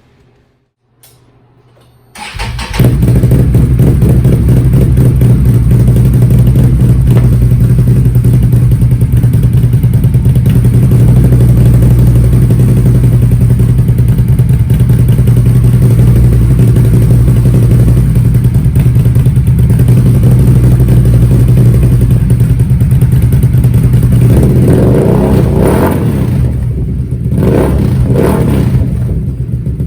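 2022 Can-Am Renegade XMR 1000's V-twin engine starting about two seconds in and idling steadily through a newly fitted RJWC Dual Mud Series dual exhaust, then revved up and down a few times near the end.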